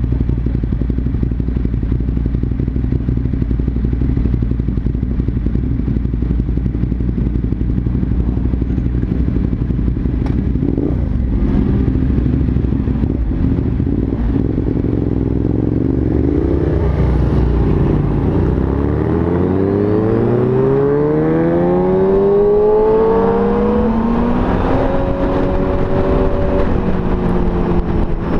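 Motorcycle riding at a steady cruise, its engine a low drone under wind noise. About two-thirds of the way through, the revs rise steeply as it accelerates hard. Near the end the pitch drops at a gear change and then climbs again.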